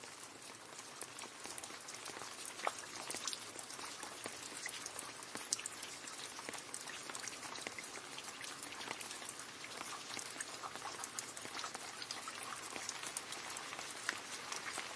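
Rain falling into a puddle: a dense, steady patter of drops splashing on water, with a few louder single drops standing out.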